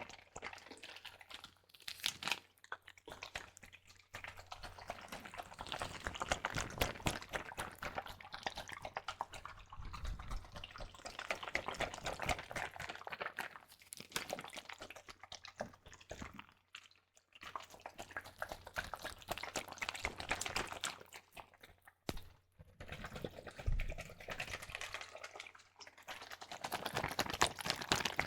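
Water squished and sloshed inside a double-layered Ziploc plastic bag held close to the microphone, with a crackly wet texture and some plastic crinkling. It comes in long stretches broken by a few brief pauses.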